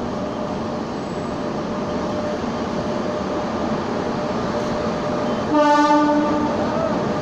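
Humsafar Express coaches rolling steadily past as the train pulls out, with a continuous rumble of wheels on rail. About five and a half seconds in, a train horn blows once for about a second, the loudest sound.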